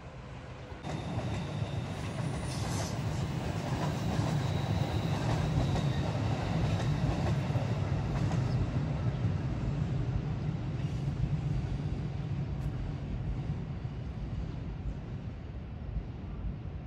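JR West 221 series electric train passing on the line, a steady rumble of wheels and running gear. It begins suddenly about a second in, is loudest midway, and slowly fades toward the end, with a thin high whine over its first few seconds.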